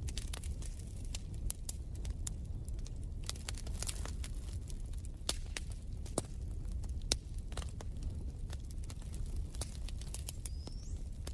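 Wood fire crackling in a fireplace: irregular sharp pops and snaps over a low steady rumble of the flames, with a short rising whistle near the end.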